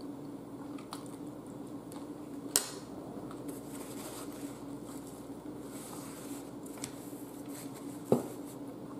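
Close-up chewing and wet mouth sounds of someone eating a mouthful of spaghetti salad, with a sharp clack about two and a half seconds in as the fork is set down, and another knock near the end. A steady low hum runs underneath.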